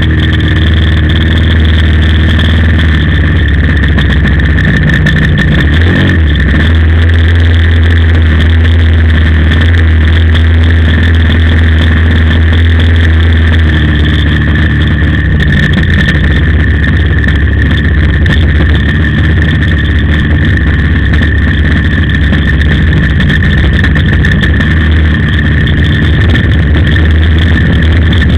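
OS FS-56 four-stroke glow engine of an RC model plane running loud and steady, with a slight change in pitch about halfway through.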